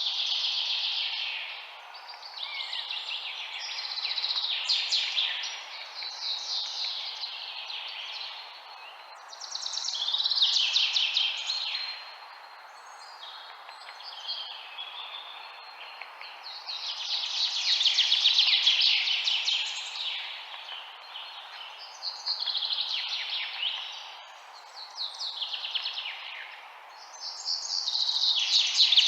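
Songbirds singing, with phrases of rapid chirps coming every two to four seconds and some overlapping. A steady hiss runs underneath.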